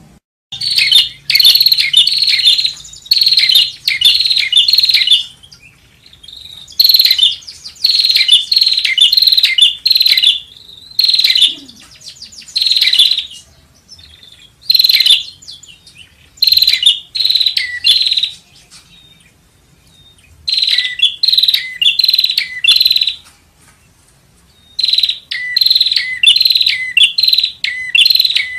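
Prenjak (prinia) singing loudly: bursts of quick, sharp repeated chattering notes, each phrase lasting one to three seconds with short pauses between. It is a call recording used as a lure.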